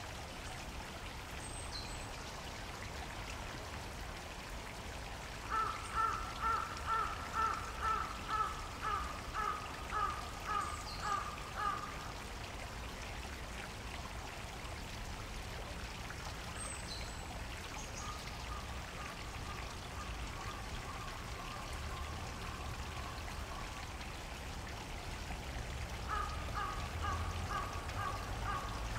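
Park stream water flowing and trickling steadily. A bird calls over it in a rapid series of about a dozen repeated harsh notes, about two a second, for several seconds, and starts the series again near the end.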